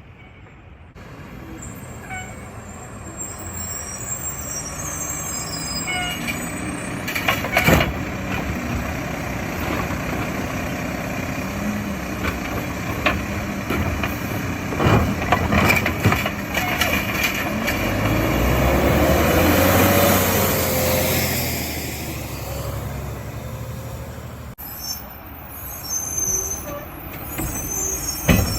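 Mack garbage truck with a Heil automated body at work: the diesel engine runs steadily, with several sharp bangs from a cart being dumped. About two-thirds of the way through, the engine rises to a loud swell and falls back.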